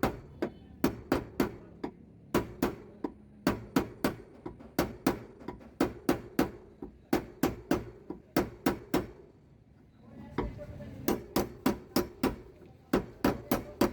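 Dry denting (paintless dent repair) on a Suzuki Swift's door: a small hammer taps the door's sheet metal in quick runs of sharp taps, about two or three a second, working the dent level. The tapping stops for about a second two-thirds of the way through, then resumes.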